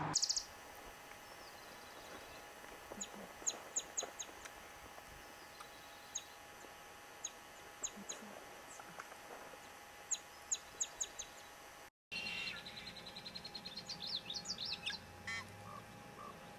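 Wild birds calling: short, sharp high chip notes spaced irregularly, then after a brief cut about twelve seconds in, a quicker run of high notes with a few lower calls.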